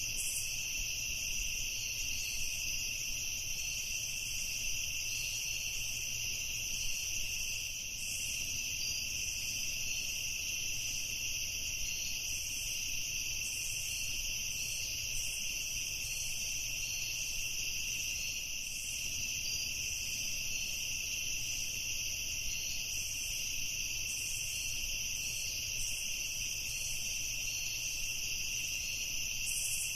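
A chorus of crickets at evening, a steady, unbroken high-pitched chirring that never pauses, over a faint low background rumble.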